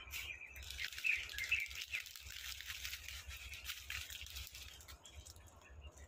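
A bird chirping: a few short high notes about a second in, then only faint background.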